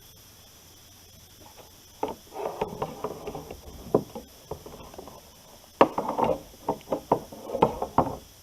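Irregular knocking and clattering on and in a kayak, as gear is handled and shifted aboard. It starts about two seconds in, with sharper knocks near six and eight seconds.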